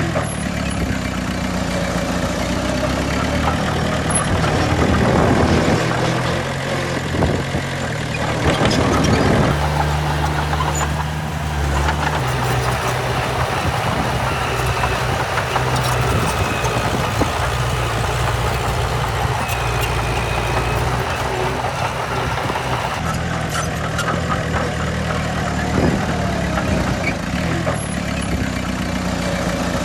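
Heavy diesel earthmoving machinery running, its engine note steady, with a noisier stretch and a change in engine pitch about eight to ten seconds in.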